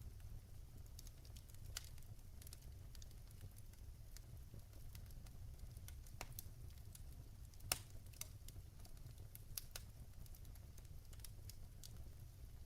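Wood fire of burning logs in a fireplace crackling: scattered small snaps and ticks over a low steady rumble, with one louder pop about two-thirds of the way through.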